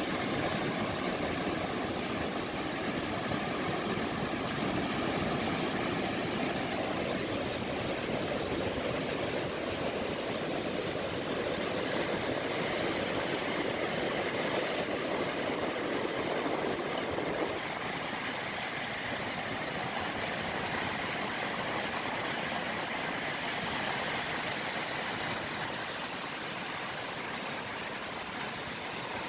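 Small sea waves washing on the shore, an even rushing noise with a faint steady hum mixed in early on; a little past halfway the sound thins and drops abruptly.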